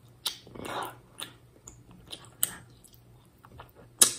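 Close-up chewing of a piece of muscat, a sticky, jelly-like Sri Lankan sweet, with several sharp mouth clicks and smacks, the loudest near the end.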